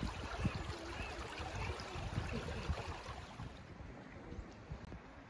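Steady rushing noise of flowing water, growing fainter and duller from about three and a half seconds in.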